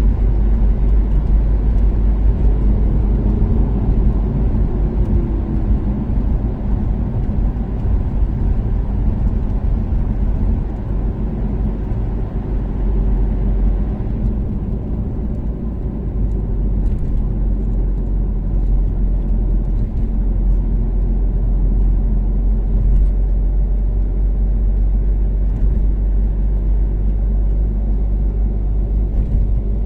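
Toyota Caldina ST246W's turbocharged 3S-GTE four-cylinder engine cruising at steady speed, with a steady low rumble of engine and road noise; the engine note rises slightly a few seconds in.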